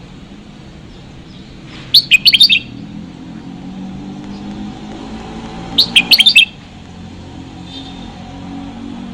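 Red-whiskered bulbul singing: two short, loud phrases of quick high chirping notes, about four seconds apart, over a steady low background hum.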